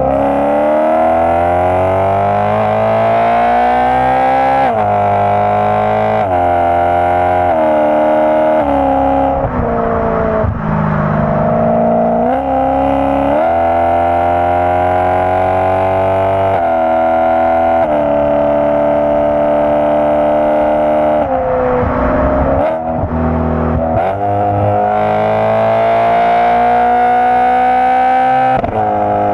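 BMW M3 engine and exhaust under load. The pitch climbs steadily and then drops sharply again and again, in the pattern of hard acceleration with gear changes.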